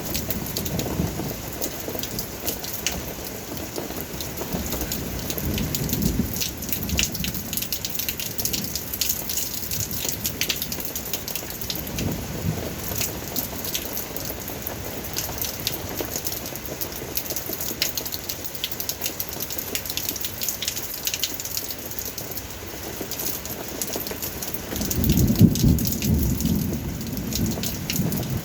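Rain falling steadily, a dense patter of countless drops striking a surface, with swelling low rumbles underneath, the loudest near the end.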